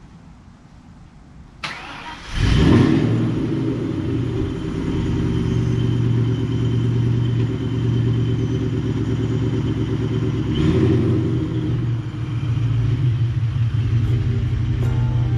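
Ford Mustang's engine started: a click, then the engine catches about two seconds in and settles into a steady idle, with one brief rev about ten seconds in.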